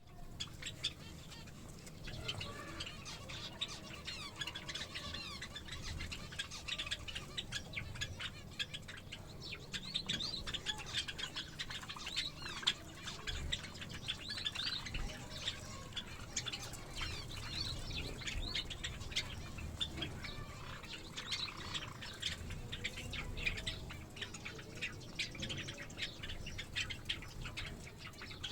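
A flock of small cage birds, Java sparrows among them, chirping continuously in quick short calls.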